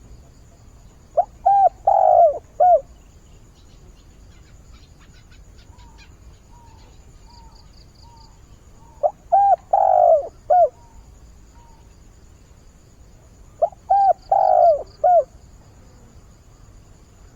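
Decoy spotted dove (cu gáy) cooing in three phrases of about four notes each, the second about eight seconds after the first and the third about four seconds later. Faint small-bird chirps sound in the background between the calls.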